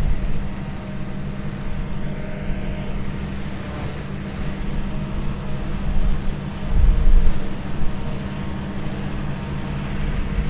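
Engine of a small alpine tractor running steadily as it rakes cut grass into rows. A low rumble swells briefly about seven seconds in.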